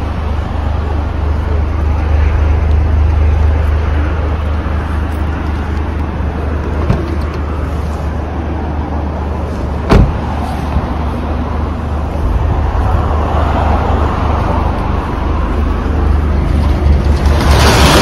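Toyota GR Yaris's turbocharged 1.6-litre three-cylinder engine idling, heard at the tailpipes as a steady low rumble. A single sharp knock comes about ten seconds in, and a louder rush of noise near the end.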